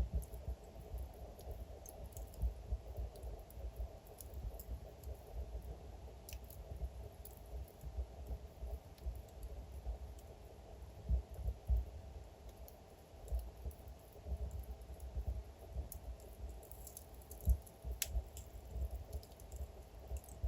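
Wood fire crackling: irregular small pops and clicks over a low rumble, with a sharper snap near the end.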